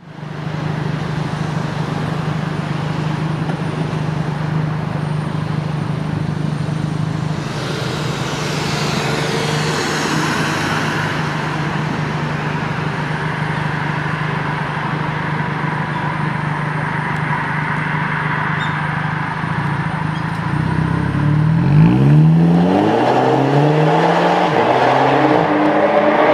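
Volkswagen Golf GTI's turbocharged four-cylinder exhaust through a TEZZO Premium Spiral stainless muffler, running at a steady idle, then revving from about 21 s in in several rising sweeps that drop back between each rise.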